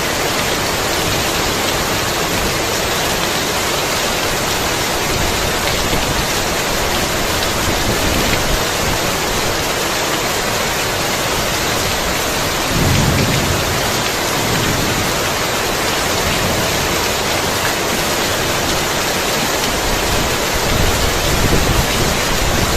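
Heavy rain falling steadily. A low roll of thunder swells about halfway through, and more low thunder rumbles in near the end.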